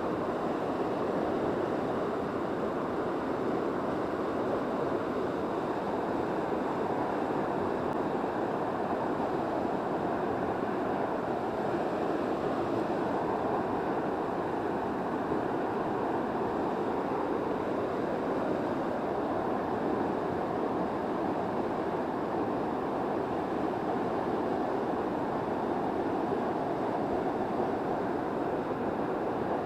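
Steady rushing of a swollen mountain river running high.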